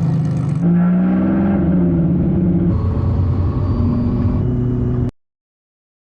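Twin-turbo V8 engine of the Toyota GR GT running under load, its pitch rising and stepping up and down across several edited passes, then cutting off suddenly about five seconds in.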